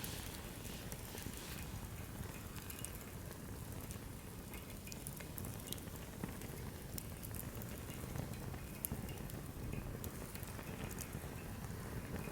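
Firewood campfire crackling, with irregular sharp pops and snaps over a steady low rumble of the flames.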